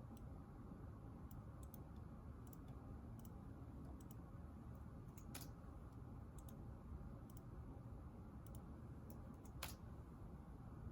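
Faint, irregular clicks from someone working quietly at a desk, over a low steady room hum; two clicks stand out, about five and a half and nine and a half seconds in.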